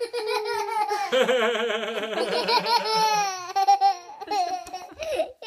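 A young child laughing hard in long, high-pitched, warbling peals: a funny laugh.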